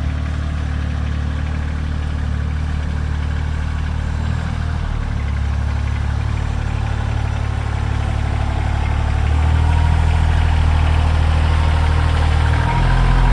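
Farm tractor engine running steadily while clearing heavy, icy snow. It grows louder about halfway through and again near the end.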